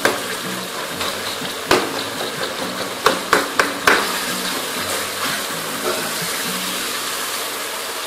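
Tomato and onion masala sizzling as it fries in a metal kadai, stirred with a metal ladle, with a few sharp knocks and scrapes of the ladle against the pan between about two and four seconds in.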